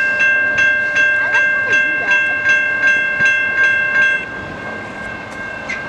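Railroad crossing bell ringing in rapid, even strokes, about three a second. It stops about four seconds in as the crossing signals shut off, and the last stroke rings on and fades.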